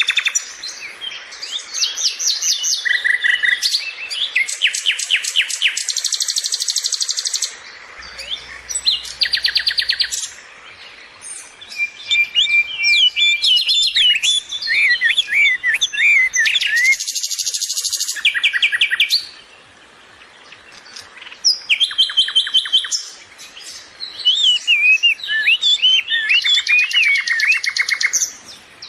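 Songbird singing and chirping in a string of varied phrases: fast trills, clear whistled notes and quick sweeping chirps, coming in bursts with a few short lulls.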